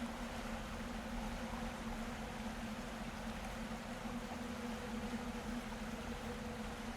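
A boat under way: a steady engine hum over a rushing, water-like hiss.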